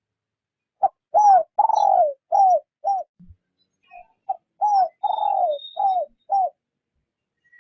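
Spotted dove cooing: two phrases of about five low coos each, the longer middle notes falling in pitch. It is a decoy bird's gentle 'rút bổi' call, used to lure wild doves.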